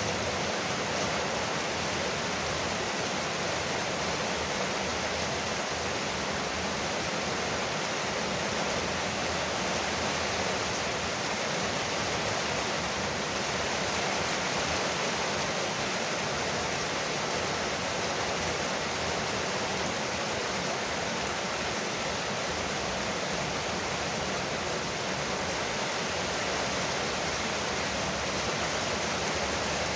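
Rain falling steadily on a porch roof, a dense, even hiss that holds the same level throughout.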